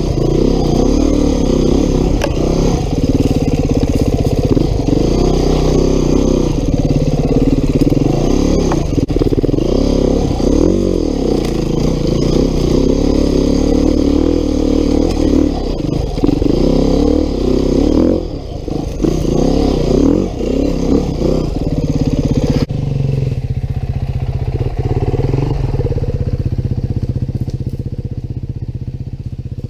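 2019 Beta 390 RR-S single-cylinder four-stroke enduro engine revving up and down in short bursts of throttle, with occasional knocks and clatter from the bike. About three quarters of the way through it drops suddenly to a lower, steadier note.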